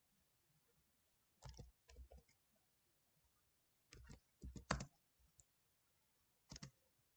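Faint, scattered clicks of computer keyboard keys being typed, a few keystrokes at a time with pauses between, over near silence.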